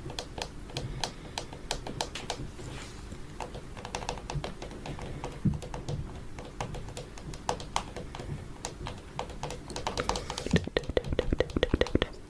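Fingernails tapping on a camera, quick irregular taps, coming faster and louder near the end.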